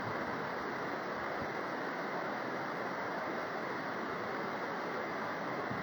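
Steady rushing noise of a hurricane storm, even throughout with no distinct events.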